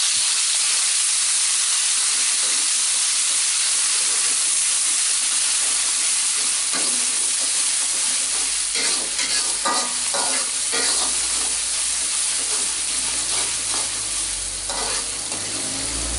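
Ground spice paste of shallots, garlic, red chilli and candlenut sizzling loudly in hot oil in a metal wok, the first stage of frying the paste until it browns. From about seven seconds in, a metal spatula scrapes and stirs it against the wok.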